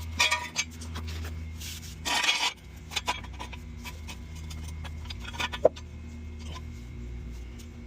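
Metal clinks, knocks and scrapes of a floor jack and jack stand being handled under a car, with a harsher scrape about two seconds in and a sharp click past the middle, over a steady low hum.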